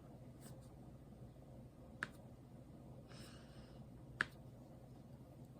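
Two sharp clicks a couple of seconds apart over a low, steady room hum, with a brief soft rustle between them.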